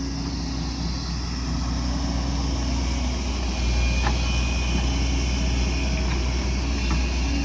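Excavator's diesel engine running steadily under work, getting a little louder about halfway through.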